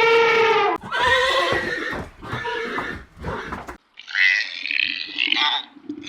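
Wild animal calls: a long, pitched call that falls slightly and ends about a second in, then a run of short, whinny-like calls. After a brief gap comes a harsher, raspier call.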